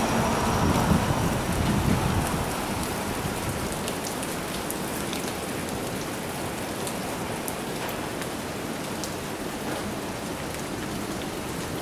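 Steady rain falling during a thunderstorm, with scattered ticks of drops landing close by. A low rumble in the first couple of seconds fades into the rain.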